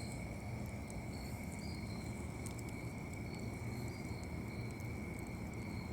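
Night insects, such as crickets, keeping up a steady, continuous high trill, with fainter higher chirps coming and going over a low rumble.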